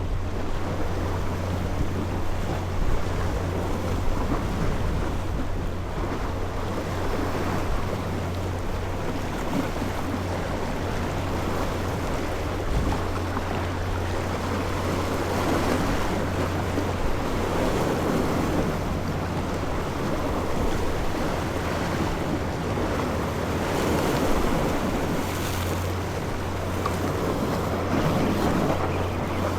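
A small fishing boat on the sea: a steady low engine hum under rushing water and wind buffeting the microphone, swelling a little now and then.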